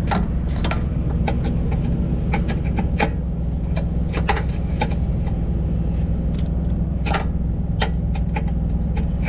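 Engine idling steadily, with irregular metallic clicks and clinks of a wrench working a stuck nut back and forth on an air-spring stud.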